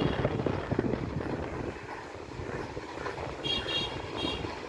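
Indian Railways EMU local electric train running on the tracks and moving away, a steady rumble that slowly fades. A few short high-pitched chirps come about three and a half seconds in.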